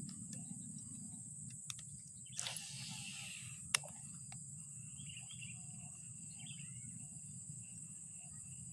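A steady high-pitched insect chorus, typical of crickets, over a low rumble. A short rustle comes about two and a half seconds in, followed by a single sharp click a little before four seconds.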